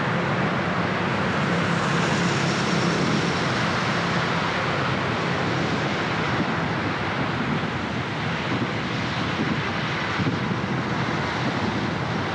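Steady road noise of a car driving on wet city streets: tyre hiss on wet asphalt with a low engine hum and surrounding traffic.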